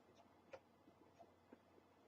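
Near silence: faint room tone with a few faint, short clicks, the clearest about half a second in.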